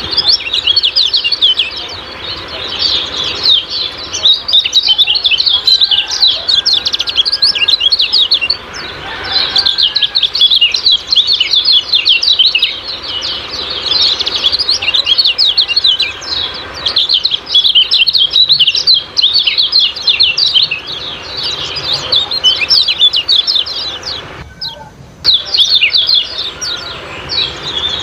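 Kecial kuning, a small yellow songbird, giving rapid, high 'ciak-ciak' chirps almost without pause, with one brief break about three seconds before the end.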